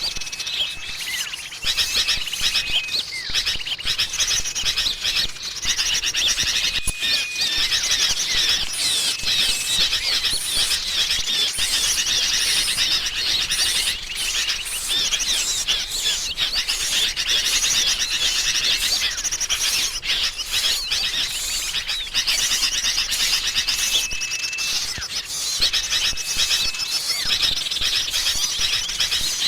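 Dense chorus of many small songbirds chirping and twittering at once, a bird-trapping lure recording of a noisy flock of sooty-headed bulbuls (kutilang) mixed with other small birds. Short, level whistled notes stand out every few seconds over the busy twittering.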